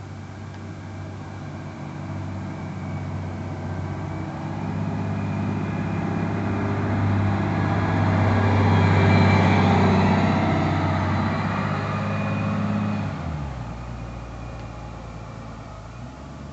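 A single-deck bus's diesel engine pulling hard uphill, growing steadily louder as it approaches and peaking about nine seconds in. About thirteen seconds in, the engine note drops suddenly to a lower pitch and the sound fades.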